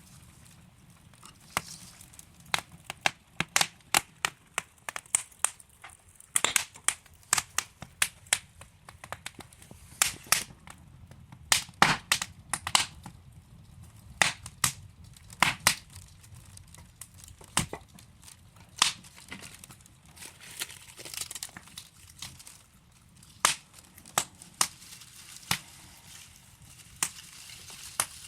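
Burning wood logs crackling in a fireplace: irregular sharp pops and snaps, several a second at times, over a faint low hiss of the fire.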